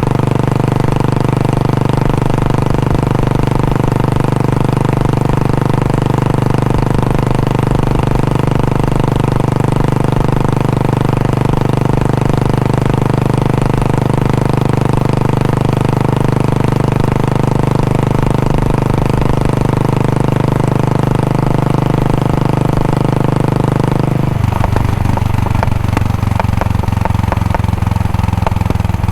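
Royal Enfield Bullet 500's single-cylinder four-stroke engine and exhaust running at steady, raised revs. About 24 seconds in it drops abruptly to a slow idle, where the individual exhaust beats can be heard.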